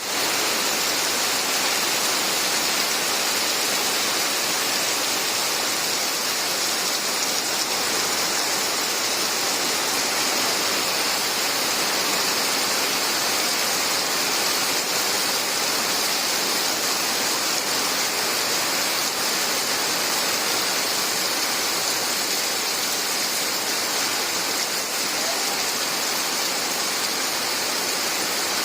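Steady rain falling, an even unbroken hiss that holds the same level throughout.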